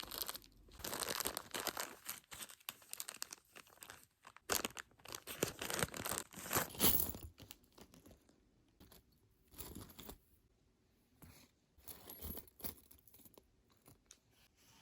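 Crinkling and tearing of packaging, in dense bursts over the first seven seconds, then a few scattered softer rustles.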